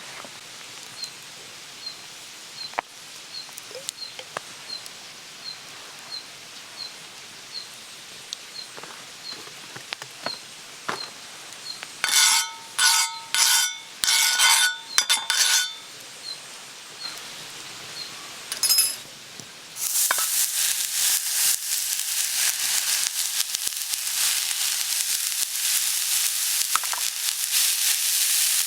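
Faint crackling, then a run of ringing metal clinks about halfway through, then, from about two-thirds in, loud steady sizzling as food hits a hot iron griddle over a wood fire.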